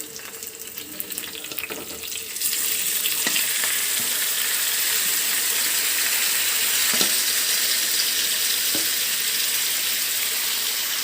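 Chicken dropped into a pan of hot oil and fried onions starts to sizzle loudly about two and a half seconds in, then keeps up a steady frying hiss, with a few clicks of a spoon against the pan.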